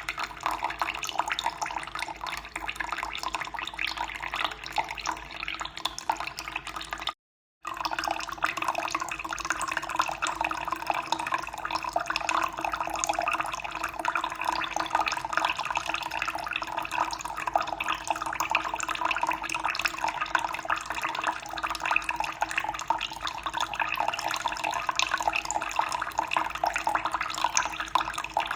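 Steady rushing of running water, splashing evenly, broken by a sudden gap of about half a second of total silence around seven seconds in, after which it resumes unchanged.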